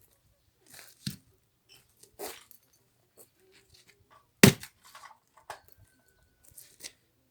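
Axe splitting firewood: a few lighter knocks and wood cracking, with one loud, sharp strike a little past halfway.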